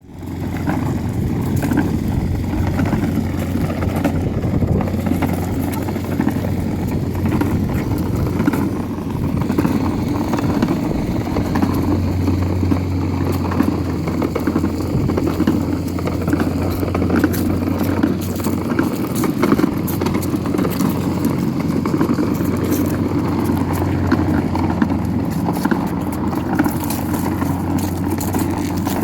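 Child's battery-powered ride-on toy truck driving: a steady motor hum with its plastic wheels rolling over the ground.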